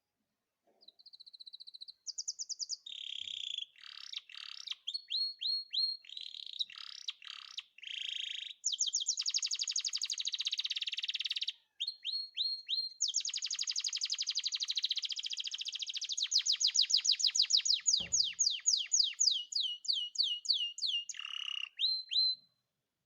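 Canary singing a long song of fast trills, whistled notes and sustained buzzy rolls, starting about a second in and stopping just before the end.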